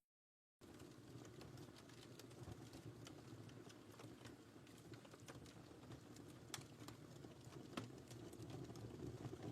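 Wood fire crackling softly, with scattered sharp pops and snaps over a low, steady rumble of flames. The audio drops out completely for about the first half-second.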